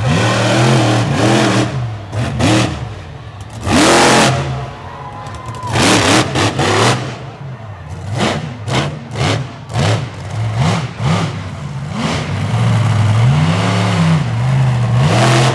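Monster truck engine revving hard and dropping back over and over, with loud sharp bangs through the first half, the loudest about four seconds in.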